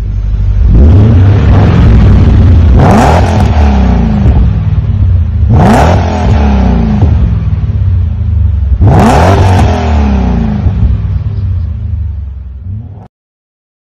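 BMW M5 E39's 4.9-litre V8 through a Rogue Engineering exhaust, running and revved sharply three times, the pitch falling back slowly after each rev. The sound cuts off suddenly near the end.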